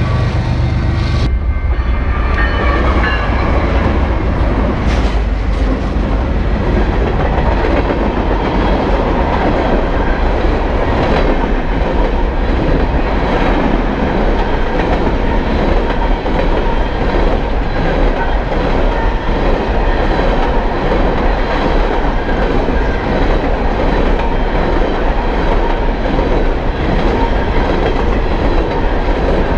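A train passing close by: a deep rumble that drops away about a second in, then steady, loud wheel-on-rail noise with clickety-clack as the cars roll past.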